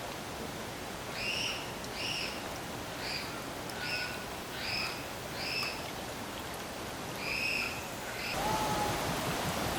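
A bird calling, about eight short high arched notes repeated at uneven intervals over a steady background hiss.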